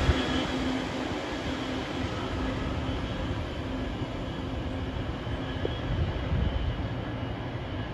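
A train running on the line: steady rail and running noise with a low hum, slowly fading.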